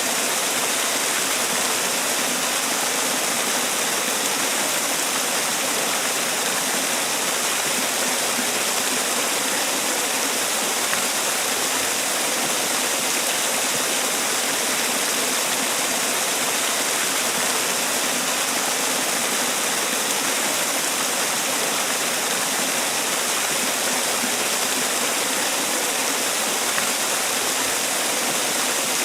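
Man-made waterfall: water pouring and splashing in a steady, unbroken rush.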